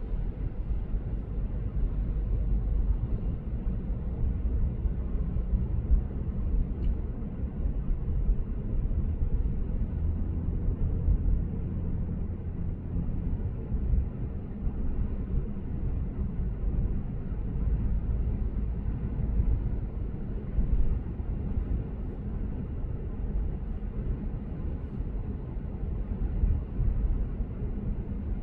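Lexus GS450h hybrid sedan cruising at expressway speed: a steady low rumble of tyres and road.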